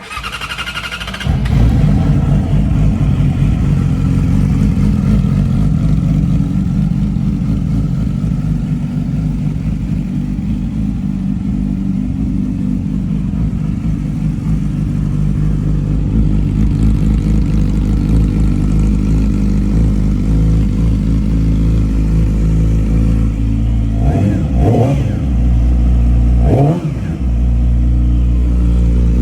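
2015 Yamaha YZF-R6's inline-four cranked on the starter and catching about a second in on a cold start, then running at a steady fast idle. Near the end the engine note rises and falls twice in quick throttle blips.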